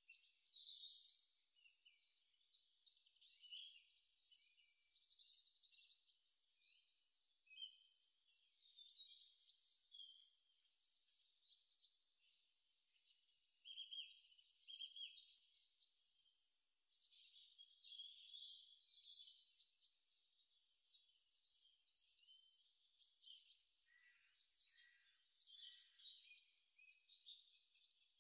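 Small birds chirping and trilling on and off, the sounds all high-pitched; a rapid trill about halfway through is the loudest part.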